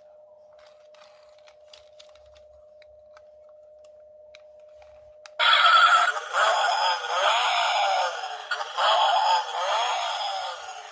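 A battery-operated toy vehicle's built-in electronic sound effects: after a few seconds of faint clicks over a faint steady tone, loud synthetic music with warbling, sweeping tones switches on suddenly about five seconds in.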